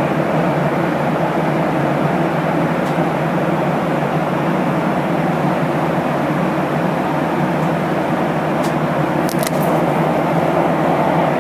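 Steady roar of a Boeing 737-800's engines and airflow heard inside the passenger cabin, with a few brief clicks about nine seconds in.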